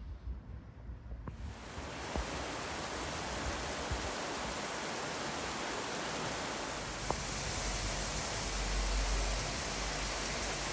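Steady hiss of heavy rain that sets in abruptly about a second in, with a low rumble of thunder swelling in the second half.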